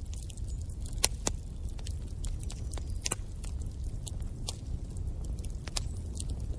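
Wood fire in a fireplace crackling: irregular sharp pops and snaps over a steady low rumble of the flames, with louder pops about a second in and about three seconds in.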